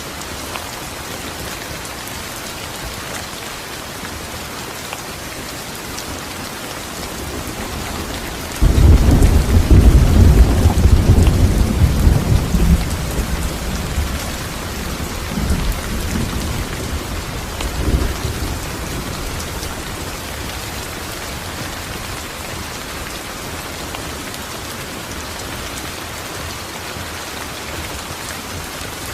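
Steady rain falling, with a sudden loud clap of thunder about nine seconds in that rumbles low for several seconds, rolls twice more and dies away under the rain.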